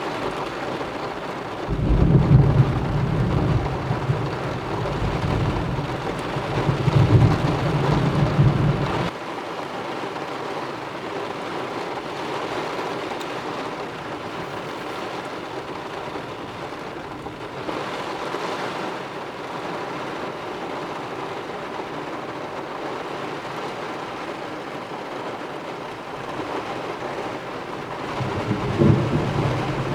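Heavy rain falling steadily during a thunderstorm, with a long rolling rumble of thunder that swells twice and cuts off suddenly, and another rumble of thunder starting near the end.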